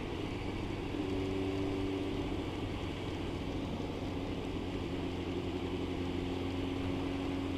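Motorcycle engine running steadily at cruising speed, with a steady rush of wind and road noise.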